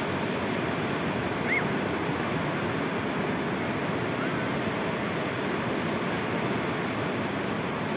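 Sea waves washing on the shore in a steady rush of surf, with a brief high squeak about a second and a half in.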